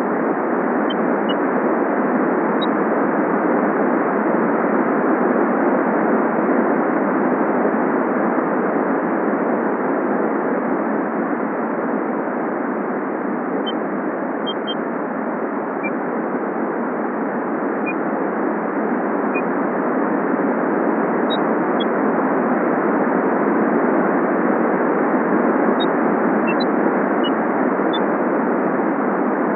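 Steady rainfall, an even hiss, with a few brief high bird chirps scattered through it.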